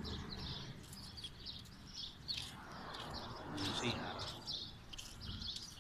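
Small birds chirping in quick, repeated short notes. A faint rushing noise swells and fades midway.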